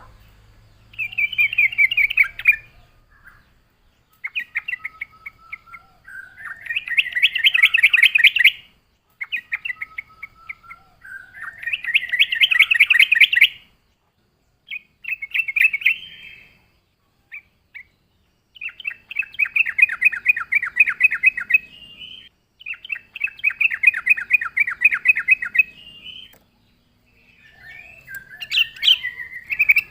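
Yellow-vented bulbul (trucuk) singing in a run of fast chattering phrases, each one to four seconds long, with short pauses between. Some phrases swell louder toward their end.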